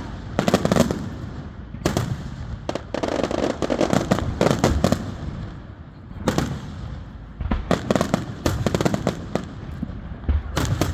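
Aerial fireworks bursting overhead in a string of sharp bangs, broken by stretches of fast crackling, over a steady low rumble.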